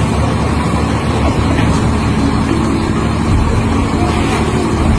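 A heavy vehicle engine running steadily with a low, even hum.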